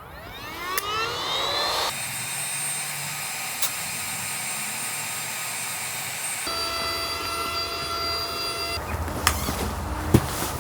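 Electric air pump inflating an air tent: its motor whine rises in pitch over the first two seconds as it spins up, then runs steadily, with the pitch changing abruptly twice.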